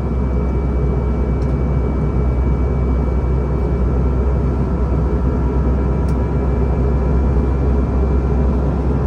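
Airbus A320 in climb, heard from inside the passenger cabin: a steady, loud rush of engine and airflow noise with a faint steady whine running through it. Two faint clicks come about a second and a half in and again about six seconds in.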